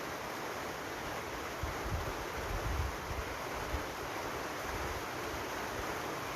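Steady hiss of falling rain, with low rumbles for a couple of seconds starting about a second and a half in, and again about five seconds in.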